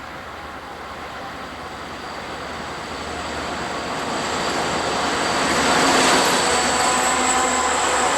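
Southern Pacific freight train approaching and growing steadily louder, peaking about six seconds in. Thin, steady high-pitched wheel squeal runs above the rumble.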